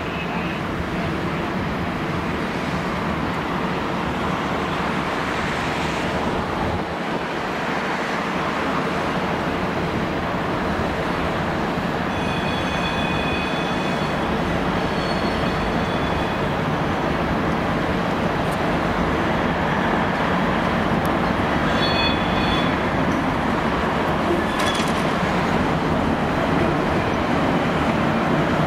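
V/Line VLocity diesel railcar set running slowly through the yard, its sound growing gradually louder as it approaches. Brief high-pitched wheel squeals ring out on the curved track about halfway through and again a little later.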